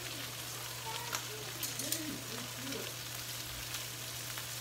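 Breaded chicken and salmon frying in oil in skillets: a steady sizzle, with a few light clicks of metal tongs against the pan between one and two seconds in.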